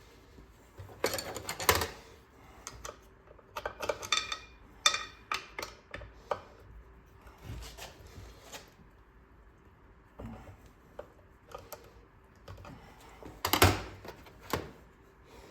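Small metal engine parts and hand tools clinking and knocking on a workbench in scattered bursts, a few of them ringing briefly.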